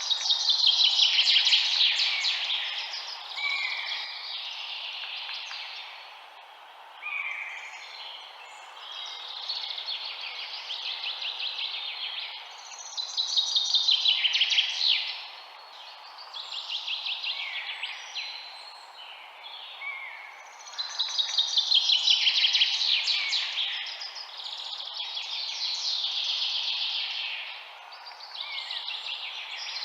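Birds singing: phrases of rapid, trilled chirps come every few seconds, the loudest right at the start and again about two-thirds of the way through, over a steady low background hiss.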